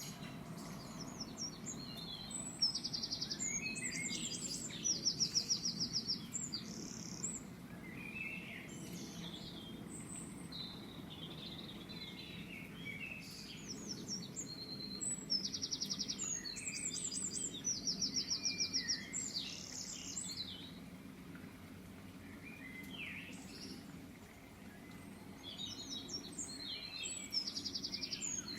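Birds singing: repeated short phrases of rapid, high chirps every few seconds, over a steady low hum.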